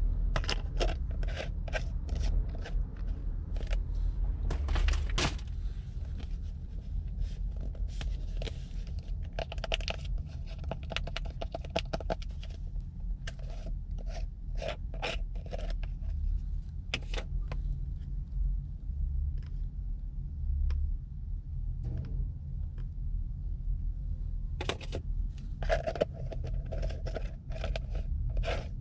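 Hands handling craft materials: scraping and crinkling with many small clicks and taps, over a steady low hum.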